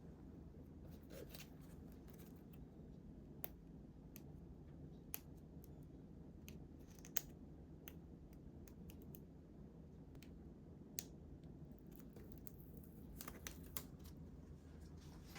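Scissors snipping paper: a few single, sharp snips spaced seconds apart, then a quick cluster of snips near the end, over a faint low room hum.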